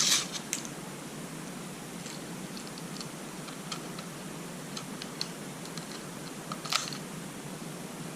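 Small clicks and light taps of distributor parts being handled and fitted back together, with a sharper click at the start and another about two-thirds of the way through, over a steady background hiss.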